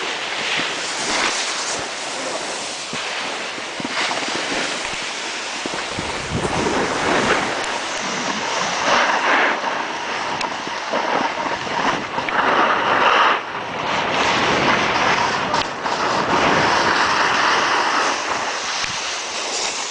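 Wind rushing over the microphone while a snowboard rides over the snow, its edge scraping and carving in uneven surges.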